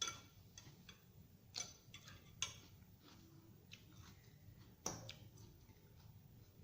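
Faint eating sounds: four sharp clicks with a short ring, typical of a fork tapping against a salad bowl, the first at the very start, then about a second and a half in, near the middle and about five seconds in.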